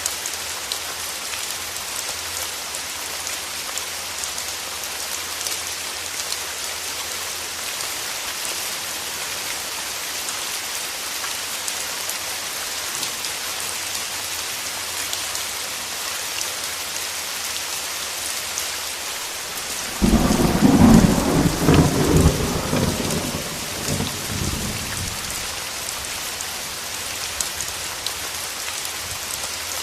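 Steady rain falling, with a sudden clap of thunder about two-thirds of the way through that rumbles for about five seconds and then fades.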